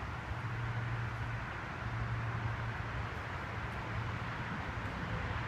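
Steady outdoor background noise: a low hum that swells and eases, under an even rushing noise.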